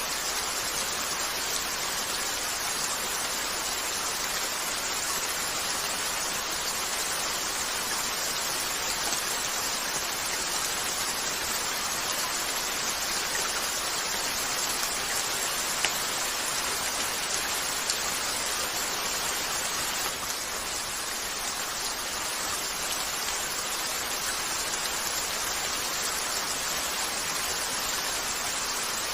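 Steady rain falling on a window, an even hiss with no let-up. Two sharp clicks stand out about halfway through.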